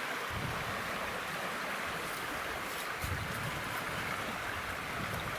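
Steady rushing hiss with intermittent low rumbles of wind buffeting the microphone.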